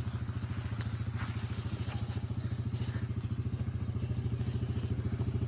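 Yamaha Grizzly ATV engine running steadily at low revs with a fast, even pulse.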